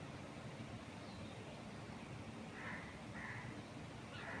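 A crow cawing, a few short calls about two-thirds of the way in and again near the end, over a steady low background noise.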